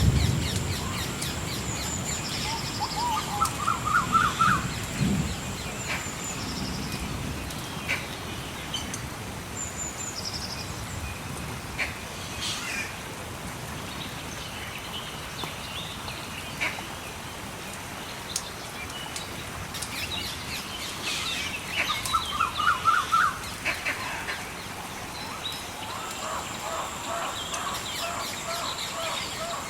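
Birds calling with short rapid trills and high chirps, in bouts, over a steady hiss of flowing water and scattered crackles of a wood fire. A low rumble of thunder dies away in the first few seconds.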